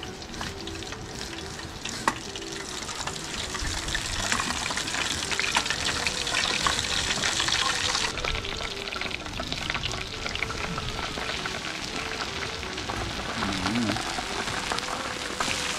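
Battered chicken wings deep-frying in hot oil on a portable gas stove: a steady sizzling and crackling that grows louder a few seconds in. A single knock about two seconds in.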